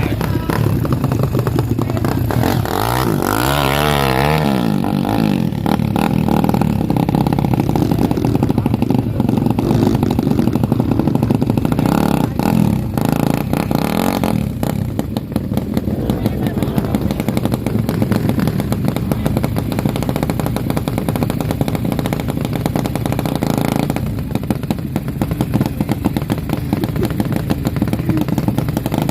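Dirt bike engine running hard and revving up and down, with a clear rise and fall in pitch a few seconds in, over a steady mechanical rattle.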